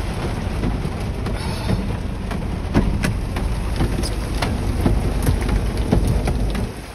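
Heavy rain pelting a small car's roof and glass, heard from inside the cabin: a steady hiss full of sharp drop hits over a low rumble, easing noticeably near the end.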